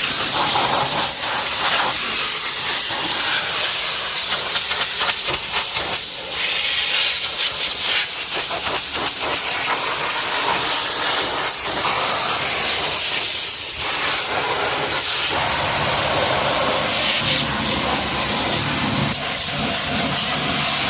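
High-pressure water jet spraying, a continuous loud hiss that shifts in tone now and then.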